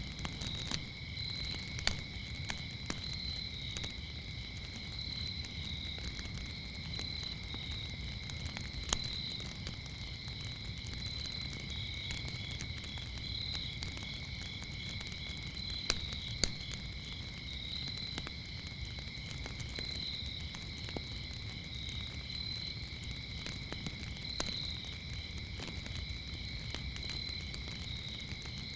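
Crickets chirping in a steady high trill, over a wood fire crackling with a low rumble and scattered sharp pops, a few louder ones standing out.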